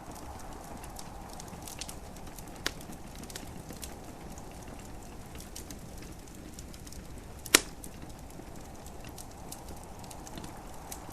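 Wood fire crackling in a fireplace, with scattered small snaps and a few sharp pops, the loudest about seven and a half seconds in, over a steady hiss of gentle rain.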